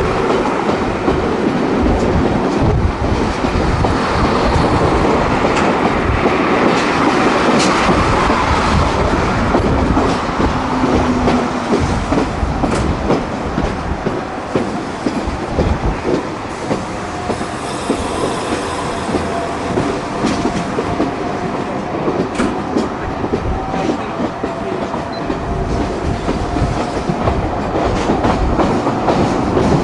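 Argentine-built AES-11 railcar running, heard from aboard: a steady rumble with wheels clicking over rail joints. A faint thin squeal comes in about halfway through and holds to near the end.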